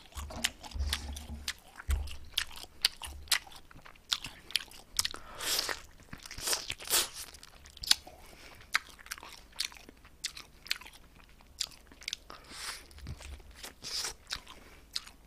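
A person biting and chewing oven-baked soy-garlic glazed chicken close to the microphone: a steady run of short, irregular wet clicks and crunches.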